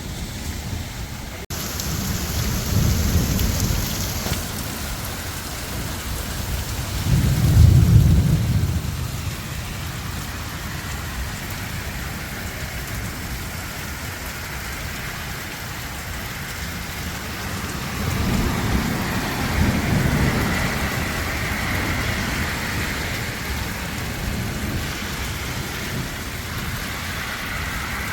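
Heavy rain falling steadily, with three deep rumbles swelling and fading over it; the loudest comes about eight seconds in.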